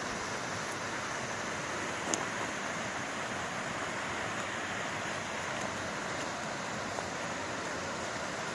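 Steady rushing of a mountain stream, an even hiss of water with no change in level, and one faint click about two seconds in.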